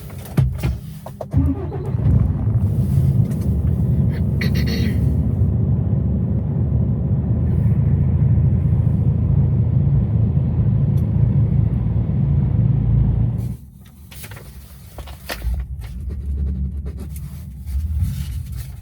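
Truck's diesel engine running with a deep, steady rumble, which drops away sharply a little past halfway and leaves a quieter rumble.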